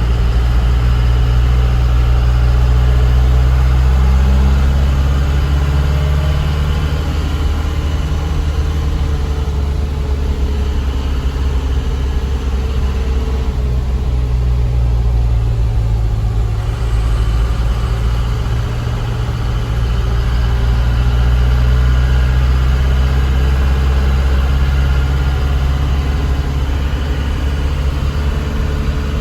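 A light diesel truck's engine running steadily on the road, with small rises and falls in engine speed.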